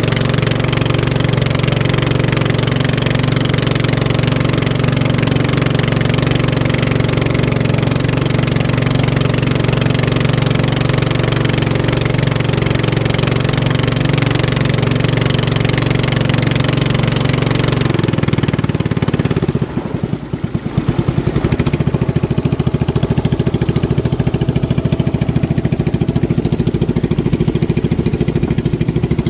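Racing motorboat engines running steadily. About eighteen seconds in the sound changes abruptly, dips briefly, and gives way to a different engine note with a rapid, even pulse.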